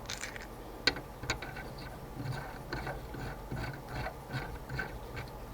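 Light mechanical clicking from a small metal mechanism being worked by hand: a sharp click about a second in, then uneven light ticks at about two a second.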